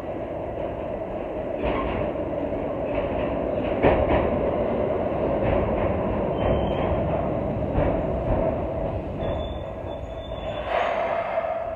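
Keikyu train pulling along the station platform: a steady rumble of running gear with wheels knocking over rail joints, and brief high-pitched wheel or brake squeals around the middle and again later.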